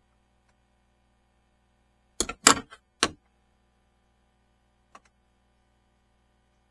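A quick clatter of three or four sharp knocks of hard objects, then a single faint click a couple of seconds later.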